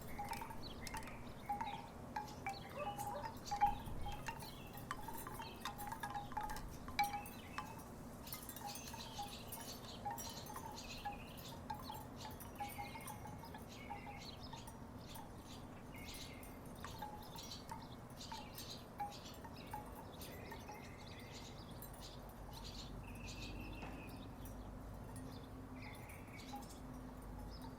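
Wooden tiki wind chimes knocking together in the breeze, irregular hollow clacks with a short ringing tone. The clacks are busy for the first dozen seconds, then thin out to occasional knocks.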